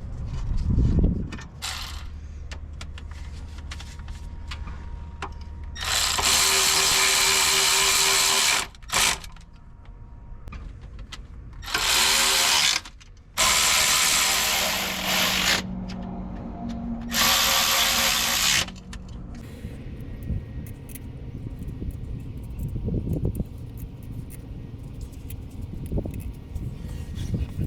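Hand-held power tool run in four bursts of one to two seconds each, with a steady motor whine under a loud rushing noise.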